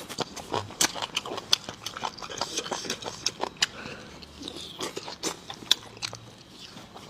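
Close-miked eating: a person biting and chewing, with dense irregular wet clicks and occasional crunches.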